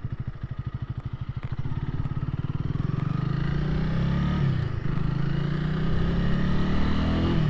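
Honda Rebel 300's single-cylinder engine pulling away from low revs with a slow, even thump, then accelerating with its pitch rising. The revs drop at a gear change about four and a half seconds in, climb again, and drop once more near the end.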